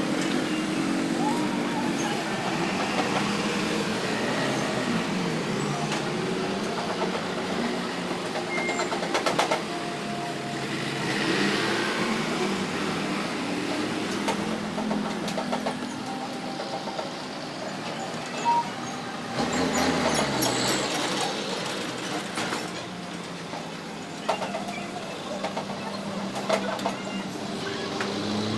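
Background traffic noise with distant voices, steady throughout with a few scattered clicks and knocks.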